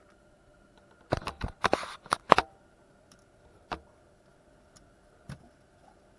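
A quick run of sharp clicks and knocks with a short rustle about a second in, then two single knocks later on.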